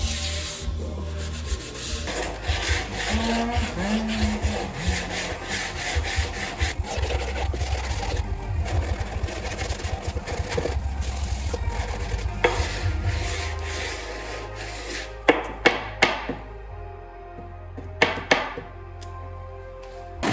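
Sander working over plywood, grinding down a dried coat of wood filler with a continuous rough scraping noise. After about fourteen seconds it quietens, and a few sharp knocks follow.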